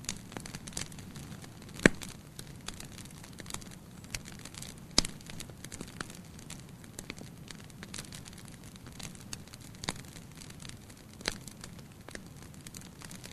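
Wood fire in a fireplace crackling, with scattered sharp pops over a low steady rush of flame; the loudest pops come about two seconds in and again about five seconds in.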